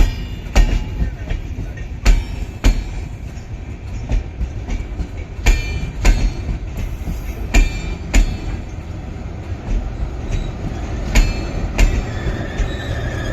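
LHB passenger coaches of an arriving train rolling past, wheels clacking irregularly over rail joints, with a faint wheel squeal coming in near the end.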